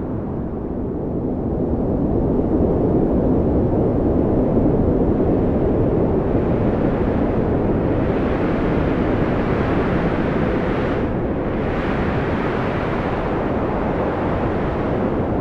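Strong wind blowing in a steady, low rushing roar that picks up a brighter, higher hiss from about six seconds in.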